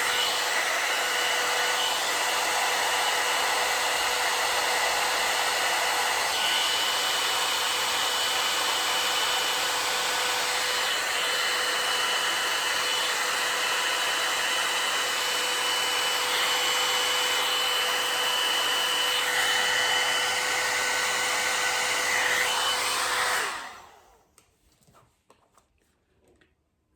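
Hair dryer blowing steadily with a constant whine, switched off about 23 seconds in.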